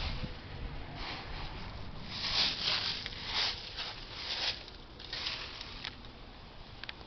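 Gusty wind: a rushing hiss that swells and fades in several surges.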